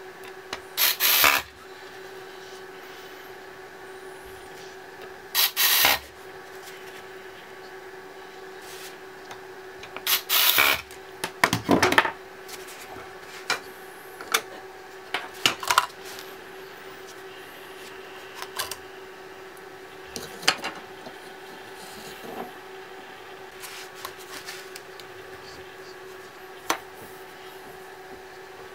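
Hands working on laptop parts: a few short scraping, rubbing strokes and scattered small clicks, over a steady hum.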